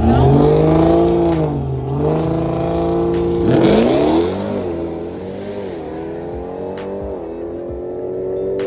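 Car engine revving and accelerating, its pitch climbing and falling several times, with a sharp surge about three and a half seconds in.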